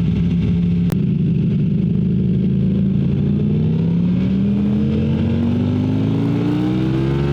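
Ducati Streetfighter V4 S's V4 engine running steadily under way, then its revs rise smoothly as the motorcycle accelerates over the last few seconds. There is a single sharp click about a second in.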